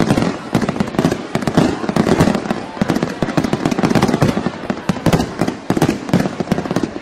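Fireworks display: a loud, rapid barrage of bangs and crackles, many explosions a second with no break.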